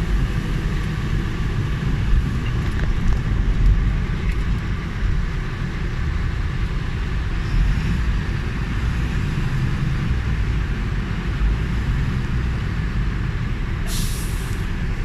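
Fire engine on the move, its engine and road noise a steady low rumble, with a short hiss near the end.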